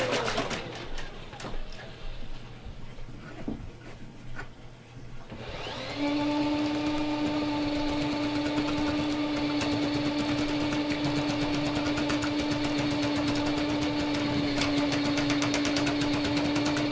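Electric drain-cleaning machine winding down as its motor is switched off, followed by a few seconds of quieter clicks and handling. About six seconds in the motor starts again and runs at a steady pitch, with the spinning cable rattling fast in the drain line.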